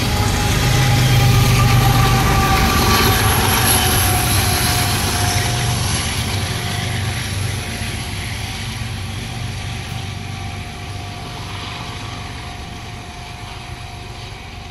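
Loaded coal train rolling past on steel rails, with a steady low rumble of wheels and cars. Diesel locomotives at the rear of the train run by, and the sound fades steadily as the train moves away.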